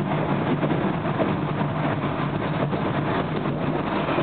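SEPTA R5 regional rail train running along the tracks, heard from inside the passenger car: a steady rumble of wheels on rails.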